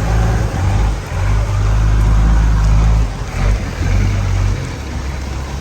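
A motor vehicle's engine running close by, a loud steady low hum over street noise, which drops away about four and a half seconds in.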